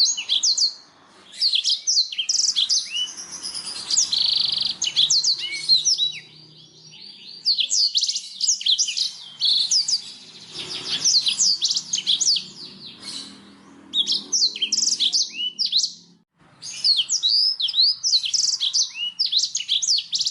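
Blackthroat (black-throated canary) singing: long runs of fast, high-pitched sweeping notes, broken by short pauses about a second in, around six seconds in and near sixteen seconds.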